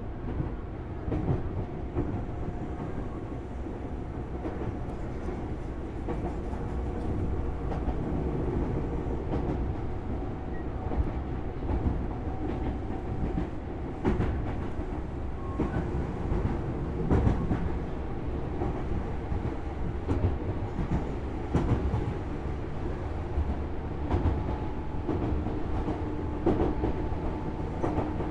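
Interior running sound of a Tobu 6050-series electric motor car at speed: steady rumble of the wheels and traction motors, with a faint whine from the motors and clacks of the wheels passing over rail joints.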